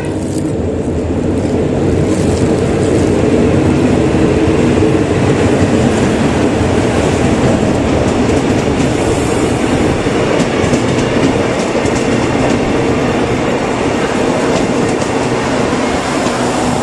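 Passenger train pulling into the platform, its stainless-steel coaches rolling past close by: a loud, steady rumble of wheels on rails with clicks over the rail joints, growing louder over the first few seconds as the coaches draw level.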